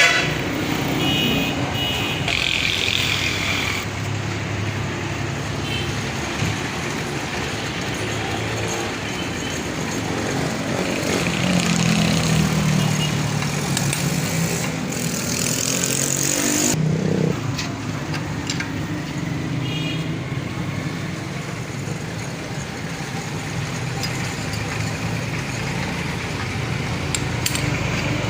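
A motor vehicle engine running steadily amid street noise. It gets louder and rises in pitch for a few seconds about halfway through.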